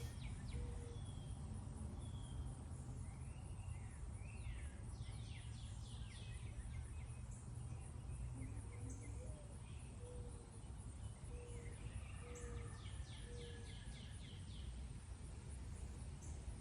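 Wild birds calling over a steady low outdoor rumble: short high whistles, two bouts of quick repeated chirps, and a run of short low notes in between.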